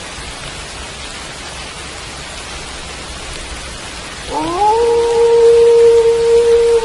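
Steady rain falling, with a wolf howl coming in about four seconds in: it rises quickly in pitch, then holds one long, steady note, the loudest sound.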